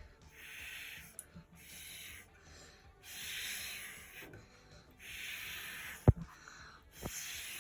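Repeated short puffs of breath blown through a drinking straw to push watery paint across paper, about five puffs with brief gaps. A sharp knock about six seconds in and a lighter one a second later.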